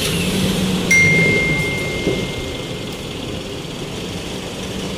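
Engine of an SUV pulling away on a street, with traffic noise. About a second in comes a sharp click, followed by a thin steady high tone that fades out over the next two seconds.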